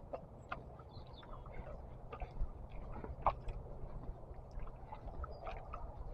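Walking footsteps, a string of irregular light crunches and ticks, picked up through an action camera's waterproof case. The sharpest click comes a little past the middle.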